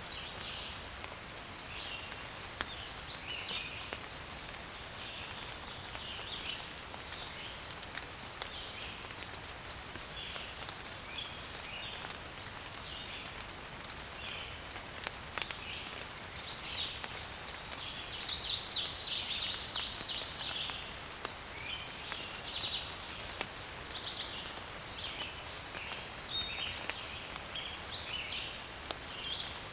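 Forest birdsong: small birds chirping in short, scattered phrases over a soft background hiss, with one louder, rapid trill of quickly repeated notes about two-thirds of the way in.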